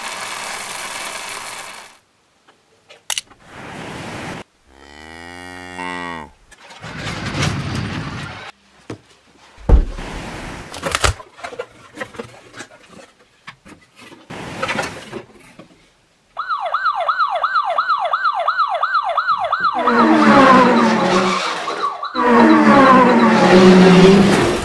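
A string of short cartoon sound effects, one a low, falling, cow-like call, followed about two-thirds through by a siren wailing rapidly up and down. Near the end, overlapping sliding vehicle tones join the siren.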